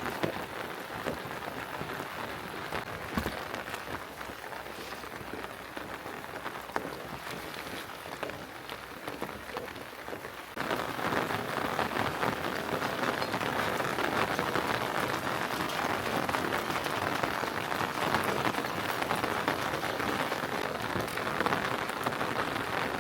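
Rain falling steadily, a constant hiss with scattered sharp drop ticks, growing suddenly louder about ten seconds in.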